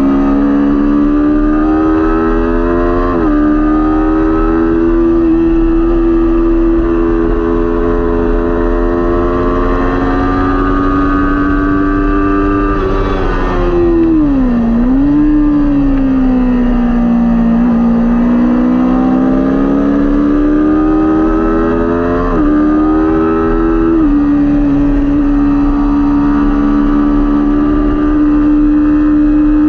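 Kawasaki Ninja 400 parallel-twin engine running hard at high revs in a race. The note climbs and drops with an upshift about three seconds in, falls sharply around the middle and climbs back, then drops twice more with quick upshifts near the end.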